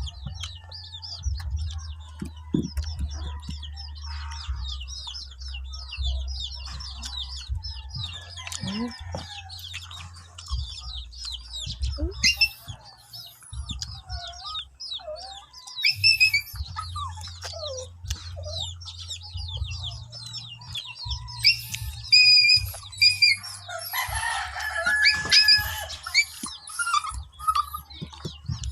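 Chickens calling, with a rooster crowing loudly about three-quarters of the way through, over constant quick, high chirping of small birds and a steady low hum.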